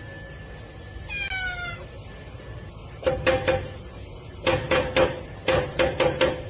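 A domestic cat meows once with a falling pitch, then rattles the metal sliding bolt of a latched door with its paws in quick clattering bursts, trying to get it open.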